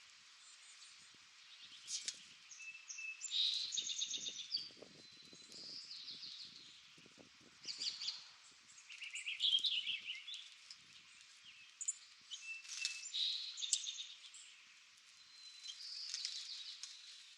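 Birds chirping and trilling in short phrases, a new group every second or two, some notes sliding in pitch.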